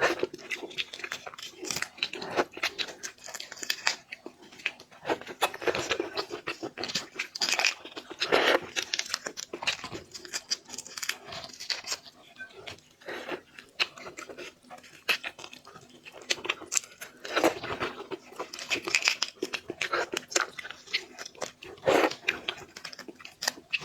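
Close-miked eating of seafood: chewing and crunching in irregular bursts, with many small crackling clicks.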